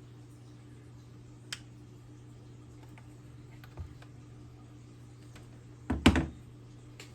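Light clicks and knocks from a hot staple gun and plastic part being handled, with a louder clatter about six seconds in, over a steady low hum.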